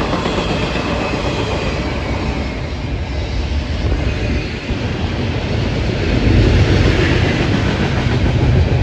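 Train passing by: steady rumble of rolling rail cars, growing louder about six seconds in.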